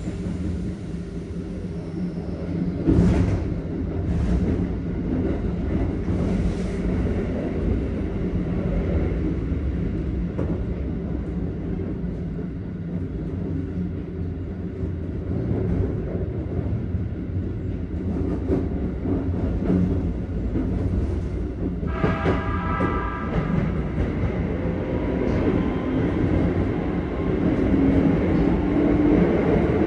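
Keikyu 1500 series electric train running, heard inside the passenger car: a steady rumble of wheels on rail with a few clacks over rail joints. About two-thirds of the way through, the Toyo GTO-VVVF inverter and traction motors come in with a stack of tones, then a whine that rises in pitch toward the end as the train speeds up under power.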